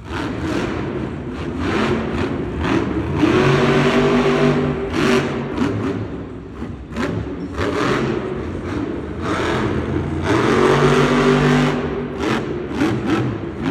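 Monster truck's supercharged V8 engine revving hard again and again during a freestyle run, the pitch climbing and dropping with the throttle. It is held at high revs twice for a couple of seconds, with shorter blips in between.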